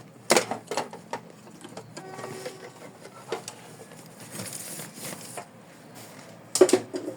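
Clicks and handling noises of an embroidery hoop being unclipped and lifted off a home embroidery machine, with a short rustle of felt and stabilizer and a louder knock near the end.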